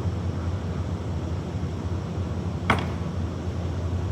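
Oxy-acetylene brazing torch flame burning with a steady low rush, and a single sharp click a little under three seconds in.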